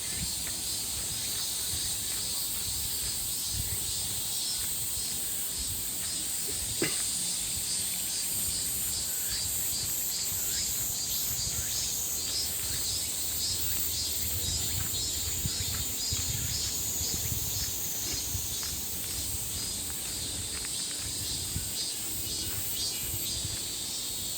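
Summer insect chorus of cicadas and crickets: a steady high-pitched shrill with a regular pulsing beat laid over it. A single sharp click about seven seconds in.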